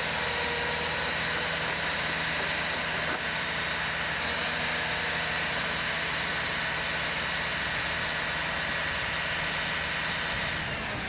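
Heavy vehicle engine running steadily under load, easing off slightly near the end.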